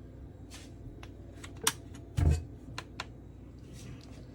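Handling of a single-serve coffee maker's parts: a few short, sharp clicks and one heavier thump about two seconds in, with faint rustling between.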